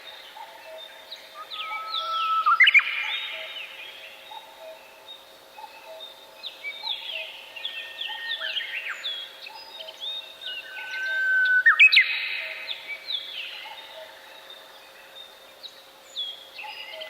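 Songbirds singing in a forest: one bird delivers a loud song phrase twice, about ten seconds apart, over quieter songs from other birds.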